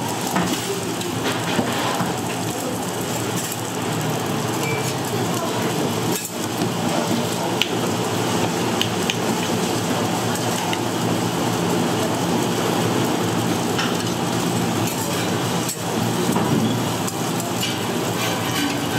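Food sizzling in hot oil on a griddle or pan: a steady crackling hiss, with a few light clicks.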